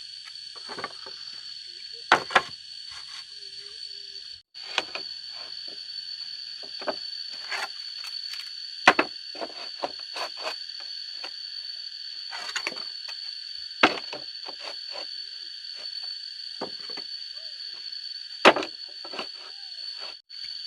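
Steady high-pitched drone of insects, with irregular sharp wooden knocks and clatter from wood or bamboo being handled and worked, the loudest a few strikes spaced several seconds apart.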